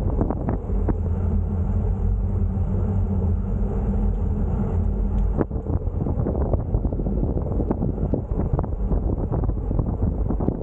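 Wind buffeting the microphone of a moving bicycle, with scattered small knocks. Over the first half, a motor vehicle's engine hums steadily, then cuts off about five seconds in.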